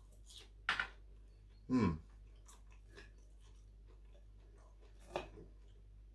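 A man chewing a mouthful of breaded fish with his mouth open: soft, wet chewing clicks, with two louder short mouth noises in the first two seconds. Cutlery clicks once on the plate about five seconds in.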